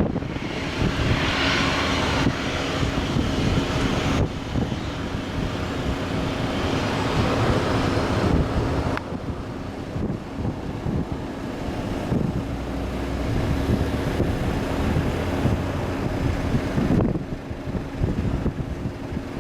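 Jet airliner engines running steadily at low power, a constant drone with a low steady hum, as the aircraft taxis; wind rumbles on the microphone.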